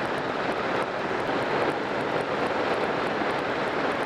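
Riding noise from a BMW K1200R motorcycle: wind rushing past the helmet camera's microphone over the steady drone of the inline-four engine.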